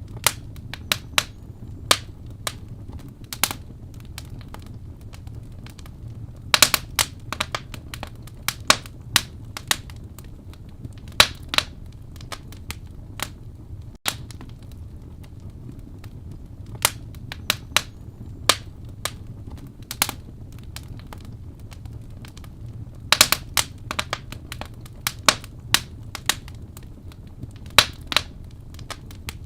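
Wood burning in a fireplace: irregular sharp crackles and pops over a steady low rush of flame, with quick flurries of crackling about a quarter of the way in and again about three-quarters of the way through.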